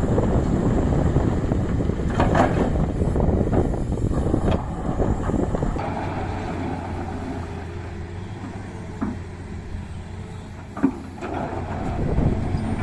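Tata Hitachi hydraulic excavator running with a heavy, low engine rumble that eases off about six seconds in, with a few short knocks and a sharper clunk near the end.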